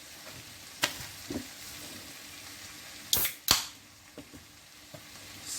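A beer can being handled and opened: a few light clicks, then two sharp cracks in quick succession about three seconds in as the pull tab snaps open, followed by faint ticks.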